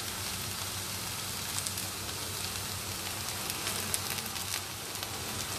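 Chopped okra frying in oil in a nonstick pan: a steady sizzle with scattered crackles, most of them a few seconds in.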